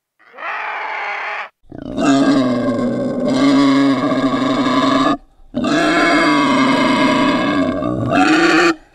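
Boar grunting in two long, drawn-out calls of about three seconds each, after a shorter, quieter animal call at the start.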